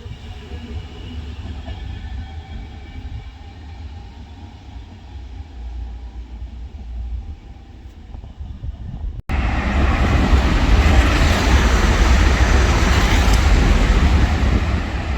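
Electric trains running through a railway station: first a low rumble with a faint electric whine. Then, after a cut about nine seconds in, a Frecciarossa high-speed train rushes past loudly at speed.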